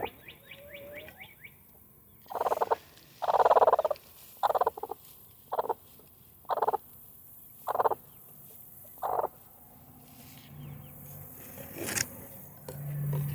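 Broody hen giving a series of about eight short, harsh clucking calls over several seconds, the second one longer and louder than the rest. This is the sound of a broody hen disturbed on her nest.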